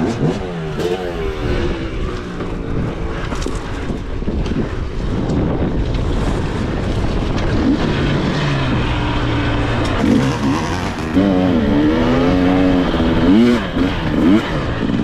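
Dirt bike engine revving up and down, with the pitch rising and falling again and again, louder and busier in the last few seconds.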